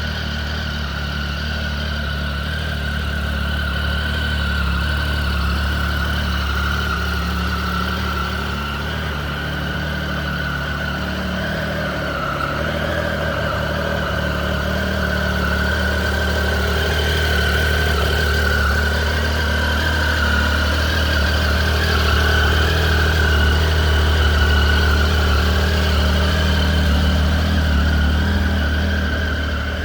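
Triumph Tiger Sport's three-cylinder engine idling steadily through an aftermarket Arrow exhaust.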